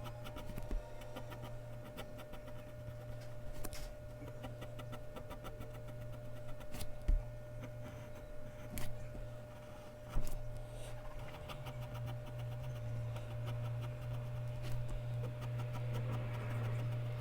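Mechanical pencil scratching on Bristol paper in quick, short strokes, with a few sharper clicks. A steady low hum runs underneath and grows louder about two-thirds of the way through.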